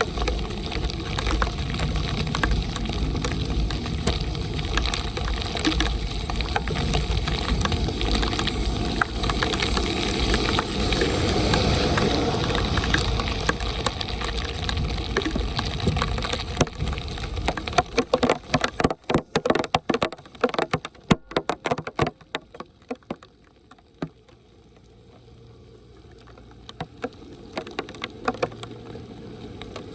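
Heavy rain and running water with a dense, steady rush, broken about 18 seconds in by a run of sharp knocks and clatter lasting a few seconds, after which it drops much quieter before slowly building again near the end.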